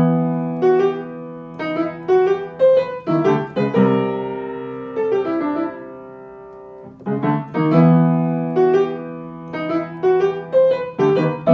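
Solo piano music: a melody over held chords. About halfway through, a chord is left to fade for a few seconds before the playing picks up again.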